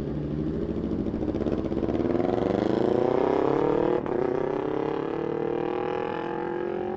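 Motorcycle engine accelerating, its pitch rising for a few seconds. A brief dip about four seconds in is an upshift, and then it climbs again more slowly.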